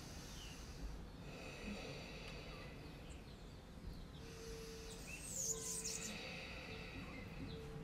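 Faint outdoor background with birds chirping now and then, the clearest a short high falling chirp a little past halfway.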